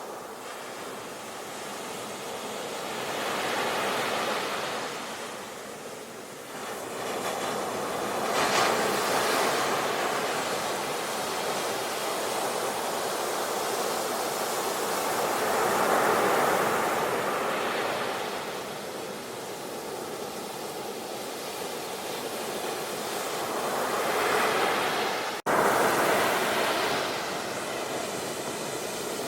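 Ocean waves breaking and washing on a shore, the surf swelling and easing again every several seconds. There is a sudden brief gap in the sound near the end.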